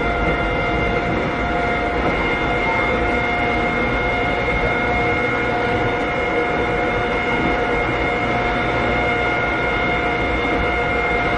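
Interior running sound of a Keikyu old 600-series electric train car with Toyo Denki electrical equipment: a steady rumble with a whine at a constant pitch, as the train cruises at an even speed. Heard from inside the passenger cabin.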